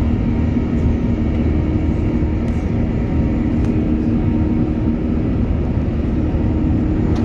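Steady cabin noise inside an Airbus A380 in flight: an even rush of engine and airflow noise, heaviest in the low end, with a constant hum running through it.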